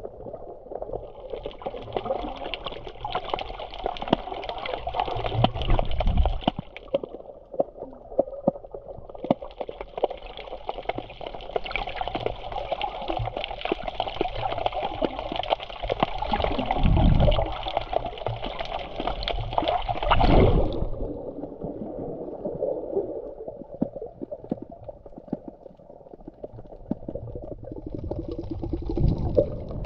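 Sea water sloshing and gurgling close to the microphone, with a hissing wash that swells and fades twice and a few heavy low thumps.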